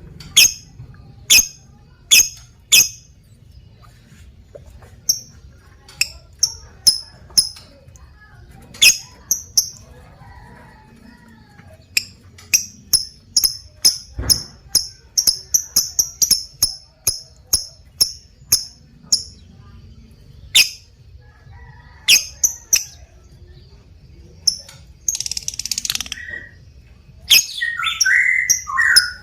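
Lovebird calling in sharp, high, short chirps, which run together in the middle into a long rapid string, the chattering call keepers call ngekek. Harsher, lower chattering calls come near the end.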